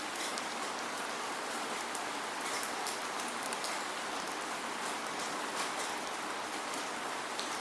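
Steady rain falling, a continuous hiss with many small drop ticks, without thunder.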